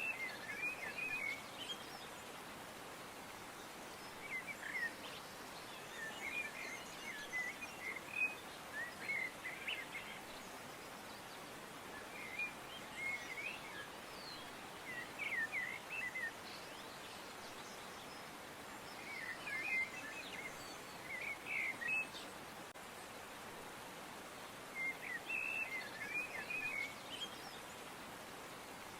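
Songbirds chirping in short bursts of quick notes, a bout every few seconds, over a steady background hiss.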